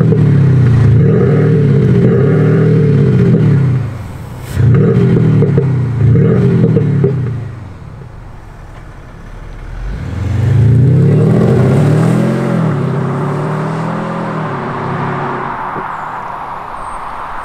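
Mercedes-Benz S400d's straight-six diesel, fitted with an active sound module's exhaust actuator, blipped several times while standing: quick rising-and-falling revs in the first seven seconds. About ten seconds in a longer rev rises and falls as the car pulls away, then fades into tyre and road noise.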